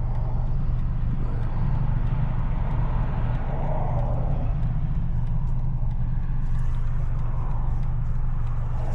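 Straight-piped, catless BMW 530 exhaust droning steadily while cruising, with road noise.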